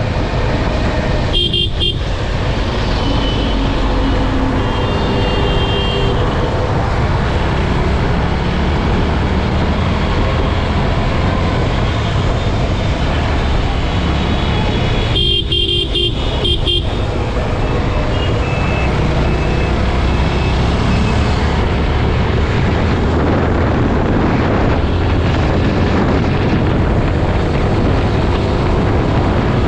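Steady engine, road and wind noise from a motorcycle riding at speed on a highway, with a few short vehicle horn toots.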